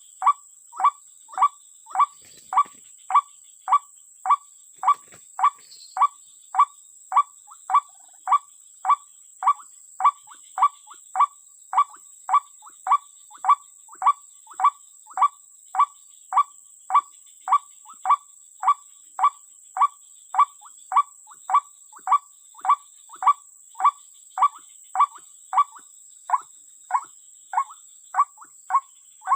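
A bird's short call note repeated very evenly, about two a second, each note falling in pitch, over a steady high-pitched hum.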